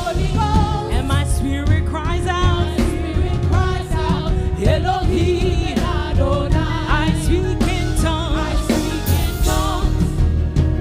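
Gospel worship music: a singer holding wavering, vibrato-laden lines over a full band.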